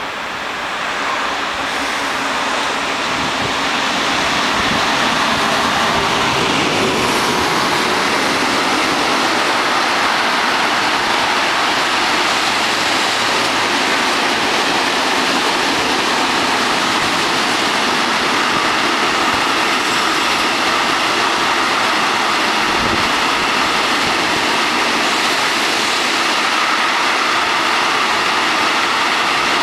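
A long freight train of open wagons loaded with wood chips rolling past close below: a steady rush of wheels on rails. It grows louder over the first few seconds as the train arrives, then holds even as the wagons keep passing.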